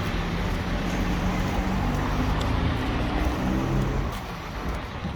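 Steady low engine rumble of a passing or idling vehicle, with a faint pitched hum, easing off a little near the end.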